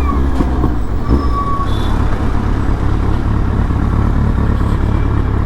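Kawasaki Z800's inline-four engine and exhaust running steadily while riding at road speed, with wind and road noise.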